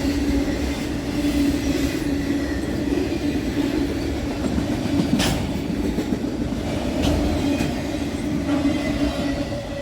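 Norfolk Southern freight train's cars rolling past: a steady rumble of steel wheels on rail with a steady humming tone, and a few sharp clacks over rail joints, the loudest about five seconds in.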